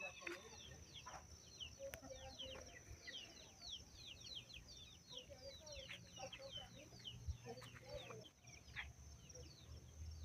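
Faint farmyard birdsong: a steady stream of quick, falling chirps, several a second, with chickens clucking low beneath them.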